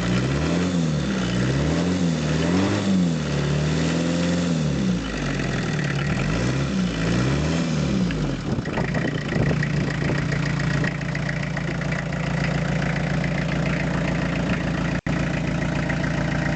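Renault 2.5 diesel engine being blipped up and down about once a second, then settling into a steady idle about nine seconds in.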